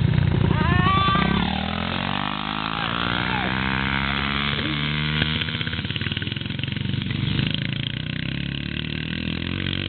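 Small four-stroke Yamaha TTR dirt bike engine being ridden nearby, its note climbing over the first few seconds and then holding steady.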